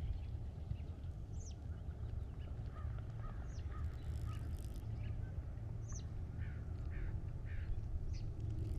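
Birds chirping and calling in scattered short notes, a few high calls sweeping downward, over a steady low rumble.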